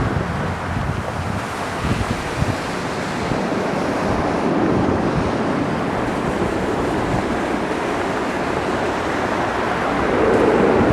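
Jet engine noise from an arriving Lufthansa Airbus A340-300 heard across the airfield, a steady roar that swells near the end. Wind buffets the microphone throughout.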